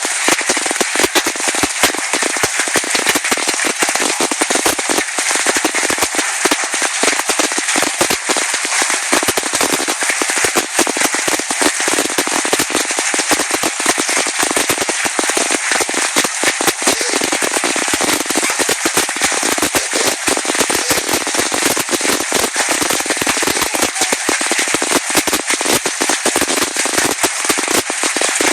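Large hailstones pounding down in a dense, unbroken clatter of hard impacts, with no let-up.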